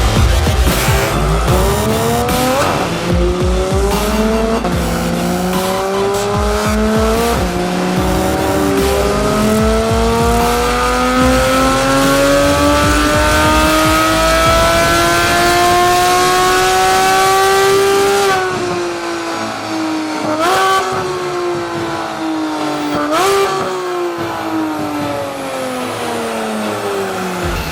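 Porsche 991 GT3 flat-six through an iPE aftermarket exhaust, accelerating hard up through the gears with three quick upshifts and then one long pull climbing in pitch. It then lifts off and the pitch falls, with two sharp throttle blips on downshifts near the end.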